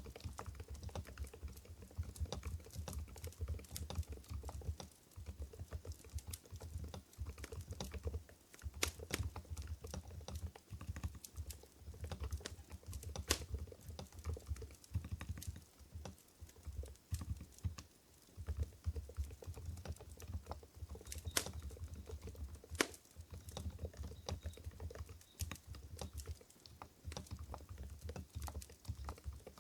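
Steady, fast typing on an Mstone Groove GV10 keyboard with silent Coral 45g switches: soft, muffled key clicks and dull bottom-out thuds, with a few sharper clicks standing out and brief pauses between runs of typing.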